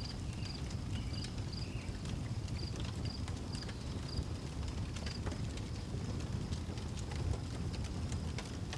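Outdoor wood fire crackling, with frequent sharp pops over a low steady rumble. A cricket chirps in a high, even rhythm, about two chirps a second, and stops about halfway through.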